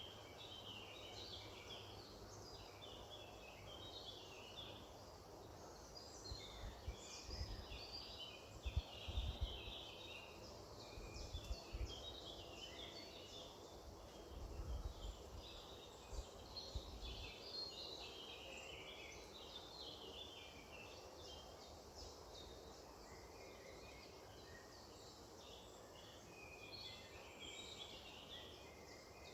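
Several songbirds chirping and singing at once, short overlapping high calls that carry on without a break, faint under a low hiss. Low rumbles come through twice, for a few seconds each, about a quarter and half of the way through.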